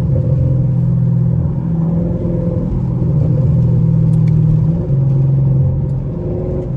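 Straight-piped Chevrolet Camaro SS V8 exhaust on the move, a steady low drone that eases off briefly about five seconds in and again near the end, with only a few faint pops. The driver blames the weak popping on his intake having come off.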